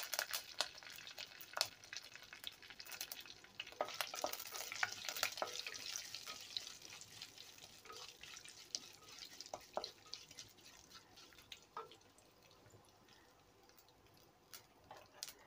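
Curry leaves with mustard and cumin seeds sizzling and crackling in hot oil for a tempering in a clay pot, stirred with a wooden spatula. The crackling dies down near the end.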